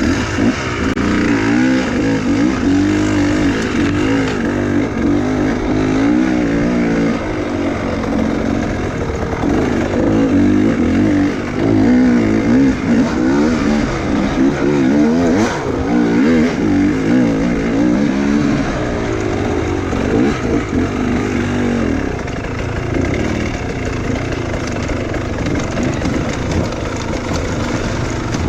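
Enduro motorcycle engine revving up and down over and over, the throttle blipped and held in turn as the bike is worked through rough off-road terrain. It eases off a little in the last few seconds.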